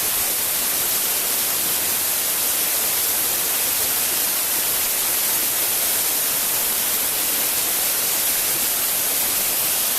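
Waterfall close by: water falling and splashing, heard as a steady, even hiss that does not change.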